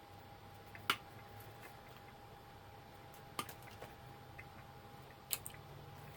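Three sharp clicks, about two seconds apart, of small plastic and metal parts being handled while an old label machine is taken apart, over a faint steady hum.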